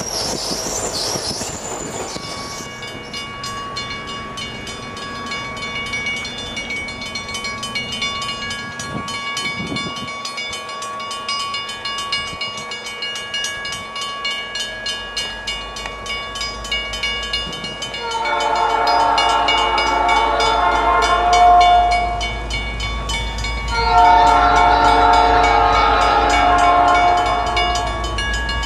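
Train rolling past with regular wheel clicks and a steady high ringing. Then the locomotive's multi-note air horn sounds two long blasts, the first about two-thirds of the way in and the second near the end.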